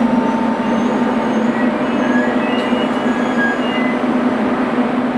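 Renfe Media Distancia multiple-unit train rolling slowly past along a station platform: a steady loud rumble with a strong low hum and a few short, faint high wheel squeaks.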